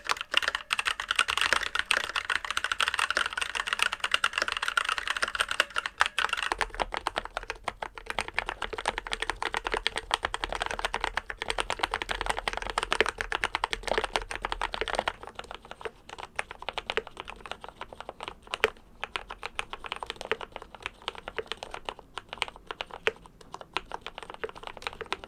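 Fast typing on a Keychron K8 Retro aluminium mechanical keyboard, comparing switch setups: a brighter, clackier sound that turns deeper about six seconds in and quieter again about fifteen seconds in, as stock brown switches give way to lubed, foam-dampened brown switches and then lubed black switches.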